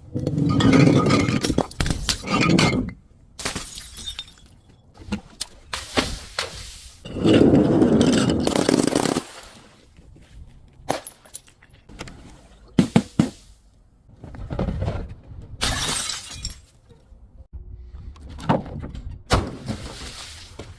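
Glass and crunchy objects being crushed and broken: several long crunching bursts, the longest about seven seconds in, then scattered sharp cracks and shorter crunches.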